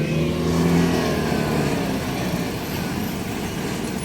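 Engine of a motor vehicle passing close by, loudest about a second in, then fading with a slight drop in pitch, over steady traffic noise.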